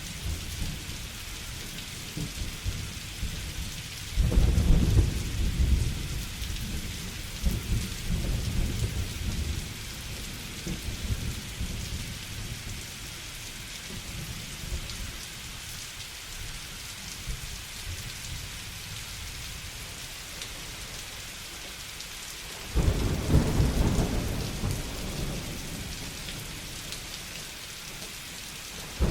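A thunderstorm: steady rain hiss, with two rolls of thunder. The first starts suddenly about four seconds in and the second near the end, and each rumbles low and fades over several seconds.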